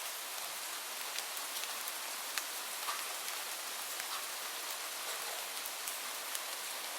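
Light rain falling steadily: a continuous even hiss with scattered individual drops ticking sharply against a surface.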